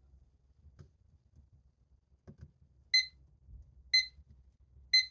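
Electronic alarm going off: short high-pitched beeps, one a second, starting about three seconds in, marking the end of the timed study session. A few faint knocks come before it.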